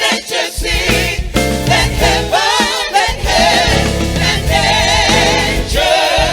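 Music: a choir singing gospel with vibrato over sustained instrumental accompaniment.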